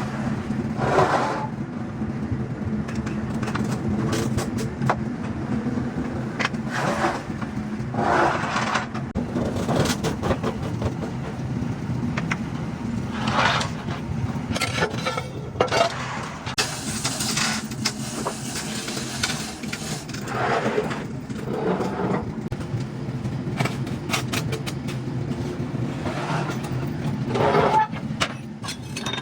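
Truck body repair work over a steady low machine hum: repeated short noisy bursts and sharp knocks, about a dozen spread through the stretch.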